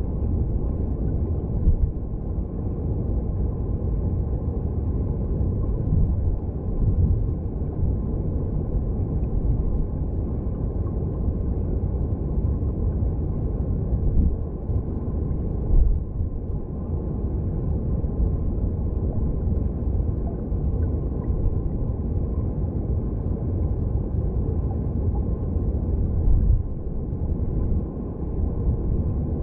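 Underwater sound of a mountain stream: a steady, deep rushing rumble of flowing water heard through a submerged microphone.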